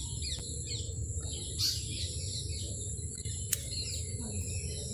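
Birds chirping in the background, many short chirps over a steady high whine and a low hum. A single sharp click comes about three and a half seconds in.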